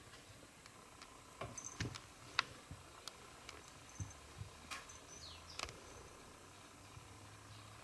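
Faint, scattered light taps and scuffs of a kitten scrabbling and pawing about on a pet bed while playing, with a short high falling chirp about five seconds in.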